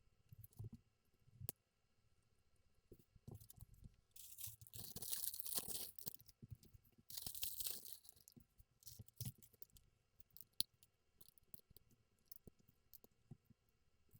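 Plastic bag of LEGO pieces being torn open and crinkled in two bursts near the middle, with scattered light clicks and taps of plastic bricks before and after.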